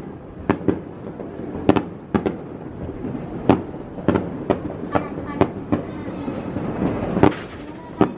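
Aerial firework shells bursting in an irregular series of sharp bangs, about a dozen, over a continuous background rumble.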